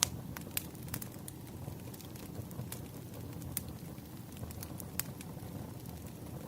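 Wood fire crackling: irregular sharp pops and snaps, about one each second or so, over a steady low rumble of burning logs.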